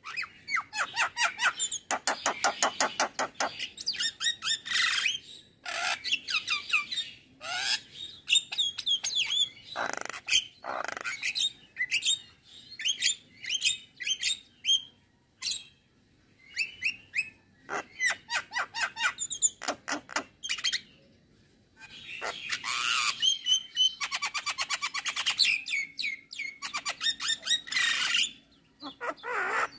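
Male Javan myna singing a long, varied song: rapid runs of chattering notes, short whistles and harsh squawks, broken by brief pauses.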